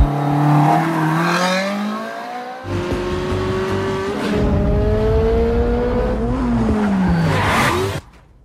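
Sports car engine revving hard under acceleration, its note climbing in two long pulls and then falling away. A short noisy rush follows, and the sound cuts off abruptly just before the end.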